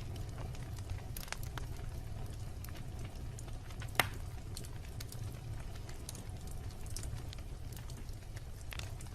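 Wood campfire burning with a steady low rumble of flames and scattered sharp crackles and pops, one louder pop about four seconds in.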